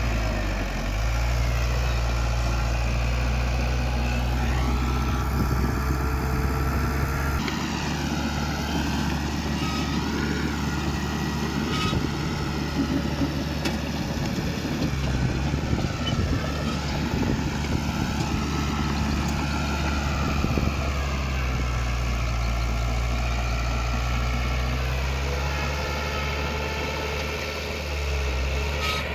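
Diesel engine of heavy earthmoving machinery running steadily, with small shifts in pitch and an abrupt change in the engine tone about seven seconds in.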